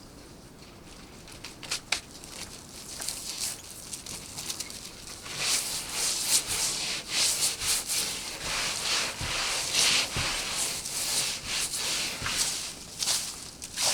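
Rough scraping and rustling, with scattered scrapes at first, then dense and continuous from about five seconds in.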